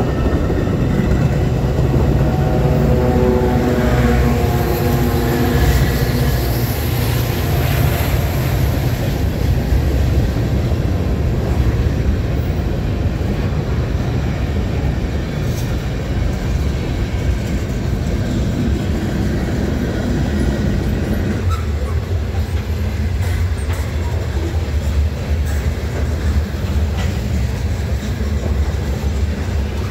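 A train passing, a continuous rumble of wheels on rails. A pitched drone sounds over it for roughly the first ten seconds and then fades, and the sound thins a little about two-thirds of the way through.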